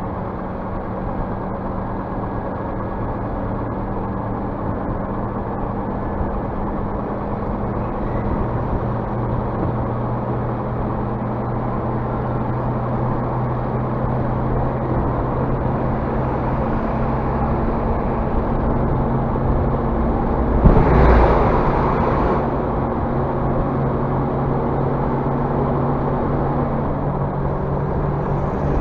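Scania bus diesel engine running steadily, building air pressure in a system that is short of air, slowly getting louder. About 21 seconds in, a short loud hiss-like burst cuts in over the engine.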